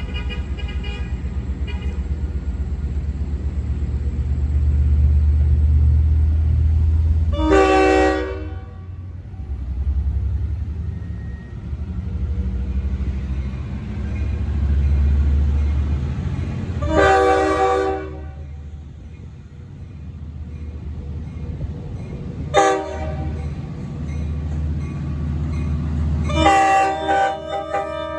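Long Island Rail Road DM30AC diesel locomotives hauling a passenger train, their engines giving a steady low rumble, while the multi-note horn sounds the grade-crossing signal: two long blasts about nine seconds apart, a short toot, then a final long blast near the end.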